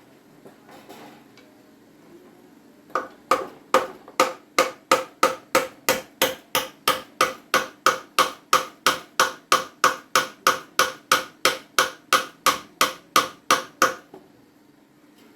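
A rapid, evenly paced series of sharp knocks, about three strikes a second, starting about three seconds in and stopping near the end, like repeated hammer blows.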